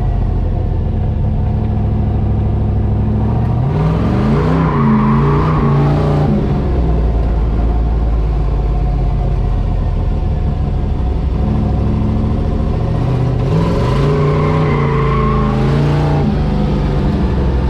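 Drift truck's engine running steadily, revving up and back down twice, about four seconds in and again near the end.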